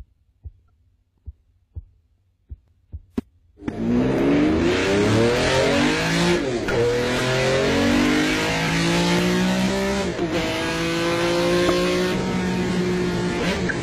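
A few faint clicks, then about four seconds in a Ferrari 275 GTB's V12 bursts in loud at high revs. It accelerates hard, climbing in pitch and dropping at each upshift, over steady road and tyre noise.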